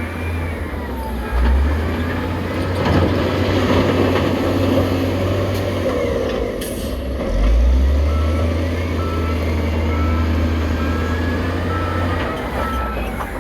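Heavy diesel construction machine engine running steadily at a deep drone. About two-thirds of the way in, a reversing alarm starts beeping about twice a second, which signals the machine is backing up.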